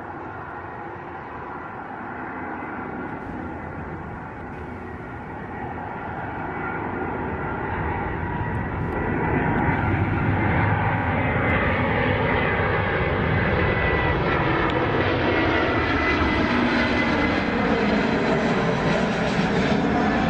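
Jet airliner flying low overhead, its engine noise building over about ten seconds and then staying loud, with a steady high whine through it and tones that sweep in pitch near the end.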